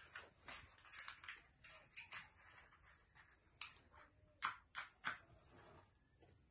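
Faint, scattered clicks and taps, the sharpest three coming in quick succession past the middle.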